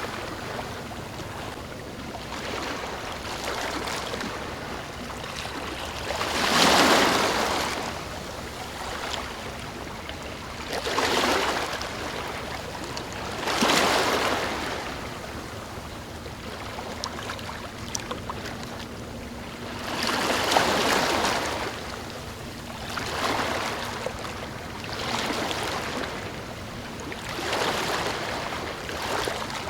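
Ocean waves washing in one after another, each surge a swelling rush of noise every few seconds, the biggest about seven, fourteen and twenty-one seconds in, over a steady background wash of water.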